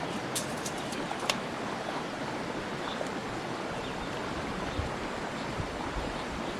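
Steady rushing noise with no pitch to it, with a few short sharp clicks in the first second and a half.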